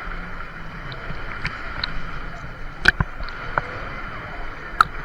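Water rushing and sloshing around a rider floating down a water-park river on a tube, with two sharp splashes or knocks about three and five seconds in.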